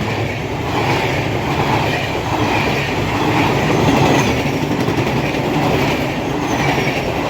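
Train running on the rails: a steady rumble and rattle of wheels and cars.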